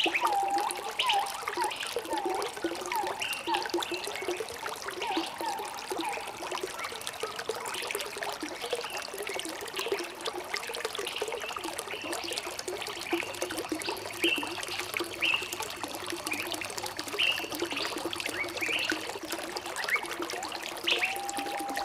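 Water trickling and bubbling in a small stream, with birds chirping over it throughout. Short whistled notes come early, and a longer held whistle comes near the end.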